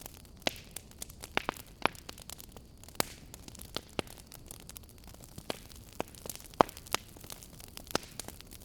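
Firewood burning, crackling with sharp irregular pops, about one or two a second, over a soft steady hiss; the loudest pop comes about two-thirds of the way through.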